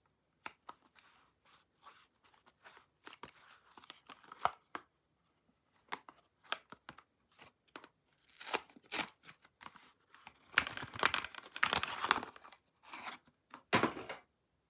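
Soap wrapping being unpacked by hand: scattered small crinkles and clicks, then longer stretches of the wrapper tearing and crinkling, loudest from about ten to twelve seconds in and once more near the end.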